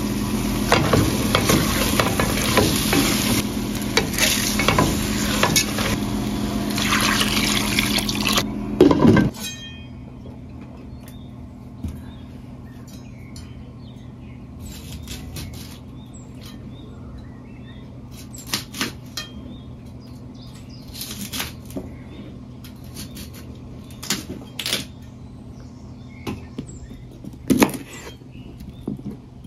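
Chicken and spices sizzling in a hot pot while a wooden spatula stirs and scrapes. About nine seconds in, this gives way to a kitchen knife cutting a cauliflower into florets on a plastic cutting board, with a sharp knock every few seconds as the blade meets the board.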